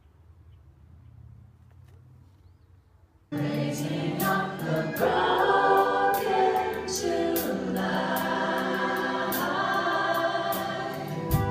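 A faint low hum, then about three seconds in a choir starts singing abruptly, many voices holding chords in harmony, with sharp high accents through the singing.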